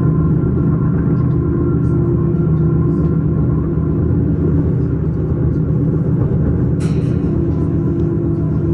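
S-Bahn train running, a steady low rumble with a faint steady whine in it, and a brief sharp click about seven seconds in.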